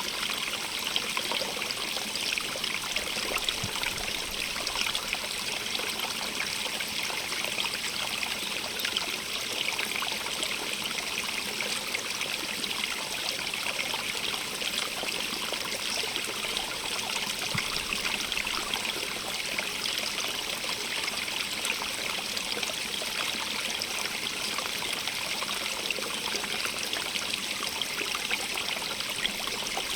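A stream running over rocks: steady splashing and trickling water, brightest in the upper range, without letup.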